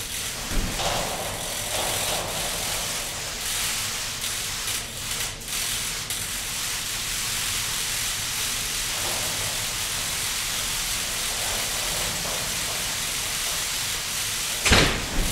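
Steady hiss of water falling from a digital rain curtain and splashing below, with a brief thump about half a second in and a louder thump near the end.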